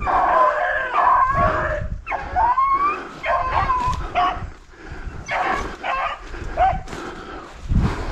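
Beagles baying and yipping on a rabbit's scent, several short high cries overlapping and repeating, some rising in pitch: a pack of rabbit dogs trailing a rabbit close in cover.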